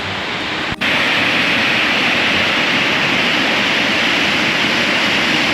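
Waterfall pouring close by: a loud, steady rush of falling water, broken briefly a little under a second in.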